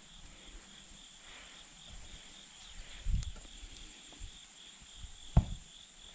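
Insects chirping in a steady pulsing trill, with a dull thump about three seconds in and a sharper knock, the loudest sound, near the end.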